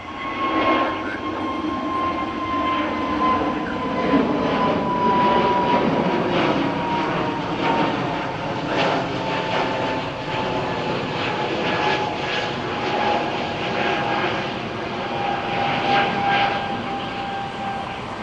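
Jet airliner engines running loud, with a high whine that slowly falls in pitch as the plane goes past.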